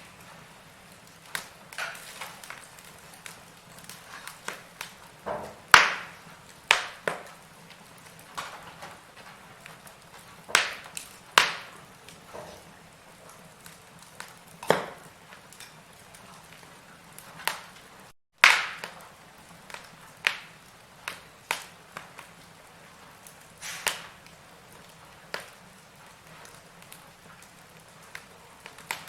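Firewood burning in a fireplace: irregular sharp crackles and pops, a few seconds apart, over a soft steady hiss. The sound cuts out for an instant about eighteen seconds in.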